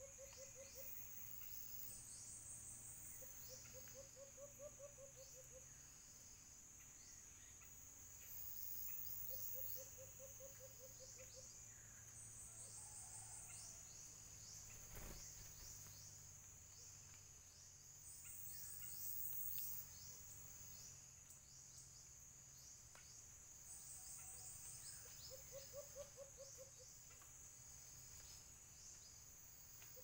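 Faint tropical woodland ambience: a steady high-pitched insect drone with short buzzing bursts above it, quick chirping bird calls, and a low rapid trill that recurs every few seconds.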